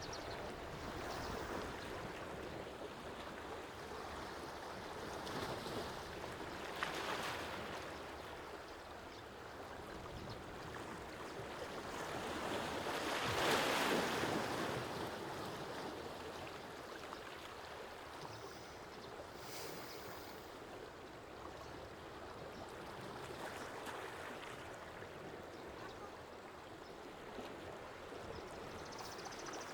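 Sea waves washing in on the shore in a steady hiss, swelling now and then, the loudest wave coming in about halfway through.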